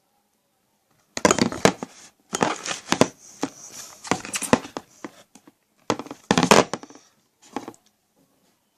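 Sticky homemade borax slime being kneaded and stretched by hand: several irregular bursts of clicking, wet noise with short pauses between them, starting about a second in.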